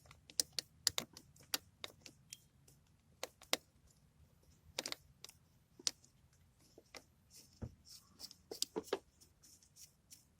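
Irregular light clicks and taps of a throttle-cable bracket and nearby parts being handled and fitted back on in an engine bay, a dozen or more small knocks at uneven spacing.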